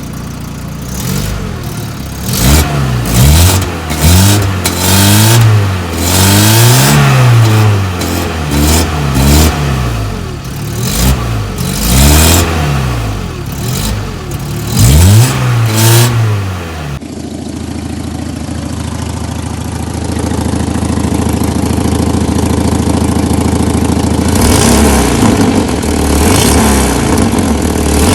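Volkswagen MK4 Bora engine being revved repeatedly, the engine note rising and falling in quick throttle blips. About two-thirds of the way through, the sound changes abruptly to the engine running steadily, growing a little louder toward the end.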